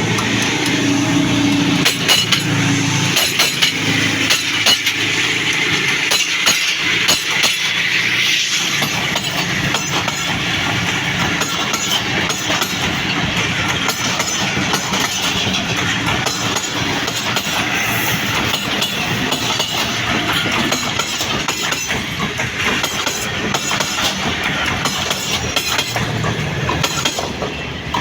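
Passenger train's coaches passing close by, wheels clicking over the rail joints over a steady rush of noise. The sound starts to fade near the end.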